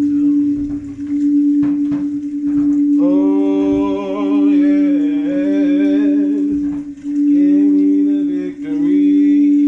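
A singing bowl holds one steady, unbroken tone while a voice hums wordless, wavering phrases over it from about three seconds in, with short breaths near seven and eight and a half seconds.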